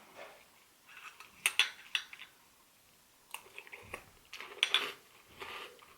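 A metal spoon clinking and scraping against a cereal bowl in a few separate knocks, as Boo Berry cereal is scooped up to eat.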